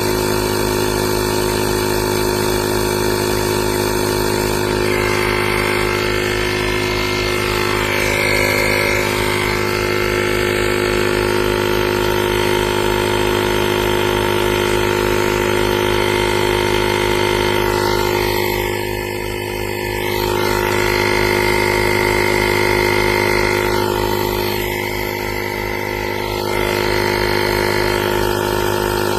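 Small 12V piston air compressor of a portable tire inflator running steadily with a fast, even buzzing pulse, briefly dipping in level twice in the second half.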